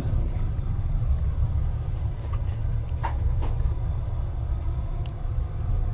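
Passenger train running, heard from inside a compartment car: a steady low rumble, with a sharp click about three seconds in and another near the end.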